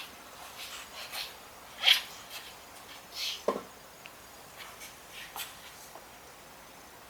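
Scattered clicks, knocks and short scrapes of parts and tools being handled during a clutch teardown, with one sharper knock about two seconds in.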